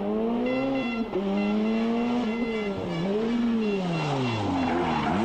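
Rally car engine revving hard, its pitch repeatedly climbing and dropping as the driver accelerates and lifts off. Near the end the revs fall steeply under a rising rush of noise.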